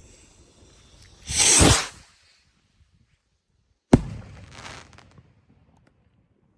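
Firework rockets launching together with a short whoosh, then one sharp bang about two seconds later as they burst, the bang trailing off over about a second.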